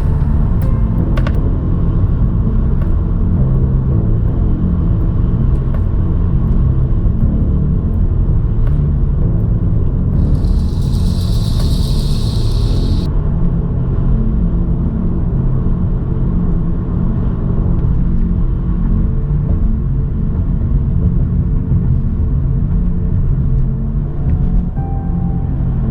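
A car driving, with a steady low rumble of engine and road noise. About ten seconds in, a burst of hiss lasts about three seconds.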